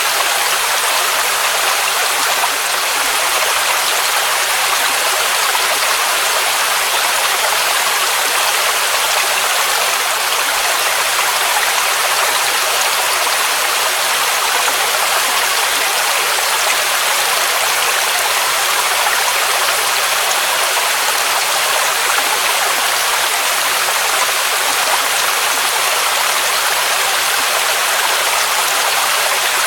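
A mountain waterfall rushing: a loud, steady, hissing rush of falling water, bright and even, with little bass.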